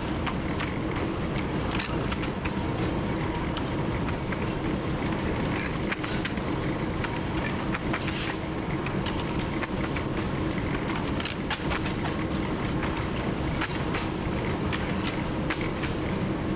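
TU7 narrow-gauge diesel locomotive running steadily under way, its engine drone mixed with wheel rattle and many sharp clicks over the rail joints. A brief hiss comes about eight seconds in.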